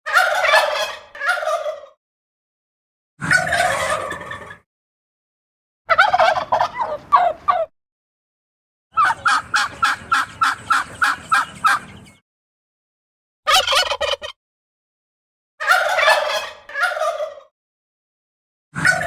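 Domestic male turkey gobbling: a run of separate rattling gobbles with silent gaps between them, the longest a quick rattle of a dozen or so pulses lasting about three seconds.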